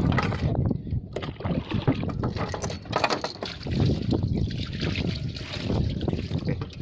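Strong wind buffeting the microphone and water slapping and splashing against a small boat, with scattered knocks and clatter on deck.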